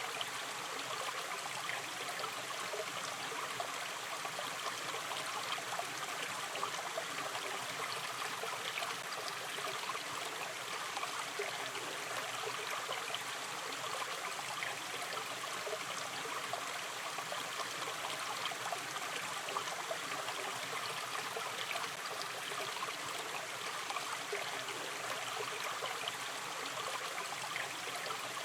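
Shallow stream of water flowing steadily, with a constant fine trickling and small splashes.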